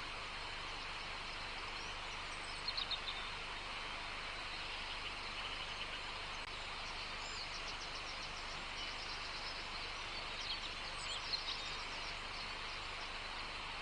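Songbirds calling in short bursts of quick high chirps, about three seconds in and again near eleven seconds, over a steady hiss of natural outdoor ambience.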